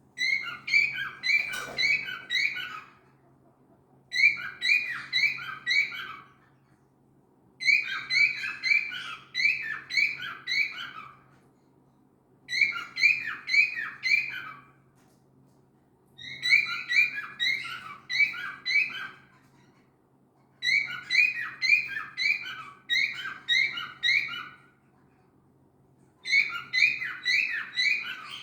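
A cockatiel calls over and over in bursts of quick, shrill chirps. Each burst of several notes lasts two to three seconds and is followed by a short pause, repeating like an alarm clock. A faint steady hum sits underneath.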